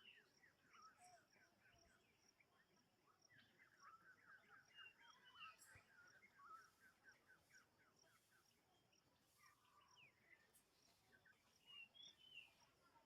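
Faint outdoor bird chirping: a quick run of repeated short chirps a few seconds in, then scattered calls, over a faint steady high insect drone.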